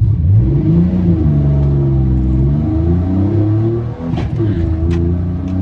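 Pickup truck's stock 4.3-litre V6 at full throttle off a drag-strip launch, the engine note climbing fast in the first second and then pulling up through the revs. About four seconds in it dips briefly at a gear change before pulling again.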